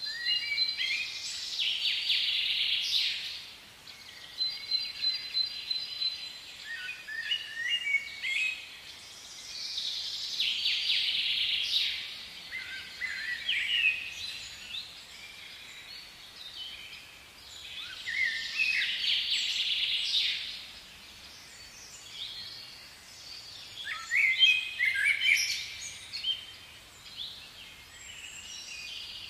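Outdoor birdsong: birds singing in four bouts of quick, gliding high calls several seconds apart, over a steady outdoor hiss.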